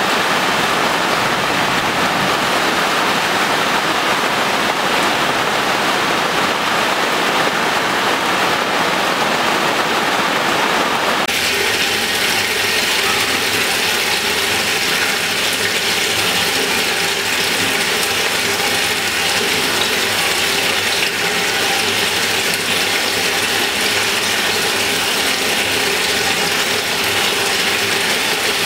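Heavy rain falling on large clay water jars, then about eleven seconds in an abrupt change to rainwater from a gutter spout pouring and splashing into a full jar, with steady ringing tones over the splashing.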